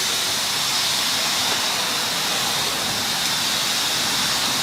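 Pressure-washer wand spraying water in a steady, unbroken hiss.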